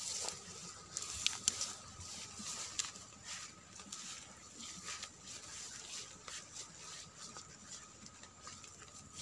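Irregular light crackling and rustling, like leaves and twigs being brushed and stepped through, densest in the first few seconds.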